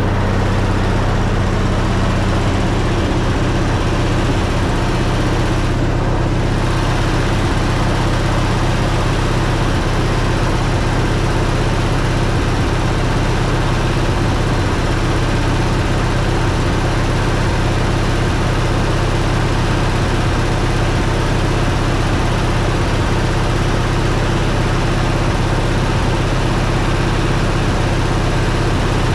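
The engine of a 1961 Chevy Viking 60 farm truck, freshly revived after sitting, running steadily at idle. Its note shifts slightly a few seconds in and then holds even.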